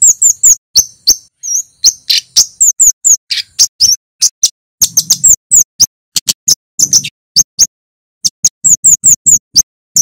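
Small songbird calling in rapid runs of short, sharp, high chirps, with brief pauses between runs.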